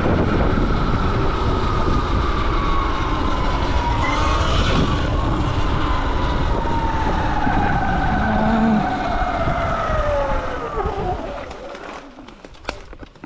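Sur-Ron electric dirt bike's motor whining, its pitch falling slowly as the bike slows, under heavy wind noise on the microphone; the whine and wind die away about eleven seconds in as the bike comes to a stop.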